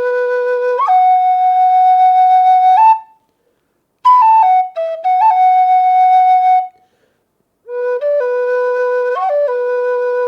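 Native American style flute in the key of B, played slowly in three phrases of long held notes with short rests between them. The first phrase leaps up and holds a higher note, the middle phrase steps downward, and the last settles back on the low home note with brief grace-note flicks above it.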